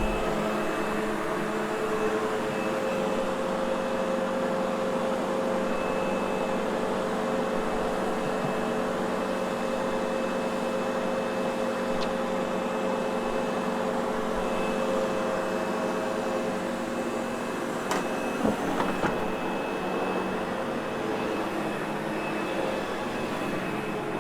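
Sebo X8 upright vacuum cleaner running steadily over carpet: a constant motor hum with a thin high whine. A couple of short knocks come about three-quarters of the way through.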